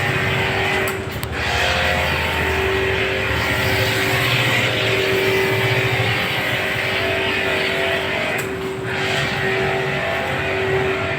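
Electric pressure washer running with a steady motor hum and the hiss of its water spray, the spray cutting out briefly twice.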